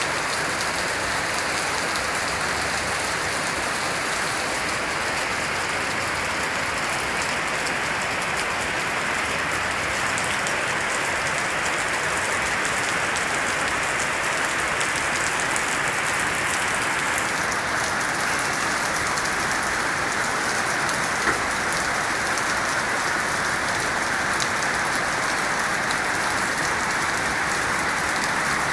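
Steady heavy rain falling and pattering on surfaces, an even hiss with no thunder.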